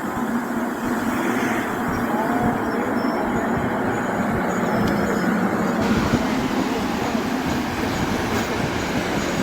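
Passenger train running past a station platform: a steady, loud rumble and rattle of wheels on the rails.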